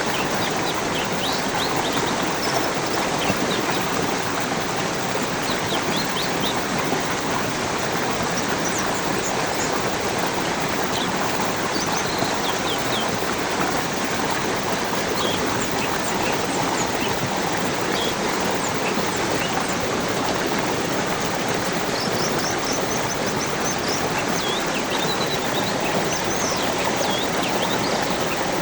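Flowing water running steadily, with short high bird chirps scattered over it, in clusters about a second in and again near the end.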